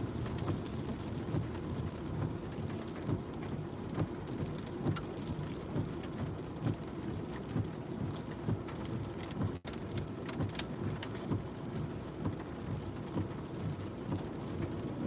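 Rain pattering on a car's roof and windshield, heard from inside the moving car, over the steady low rumble of the car driving on a wet road. The sound cuts out briefly about two-thirds of the way through.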